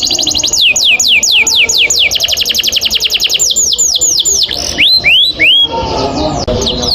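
Male domestic canary singing a long, fast song: runs of quick downward-sweeping whistled notes alternating with rapid buzzy trills (rolls), a few rising notes about five seconds in.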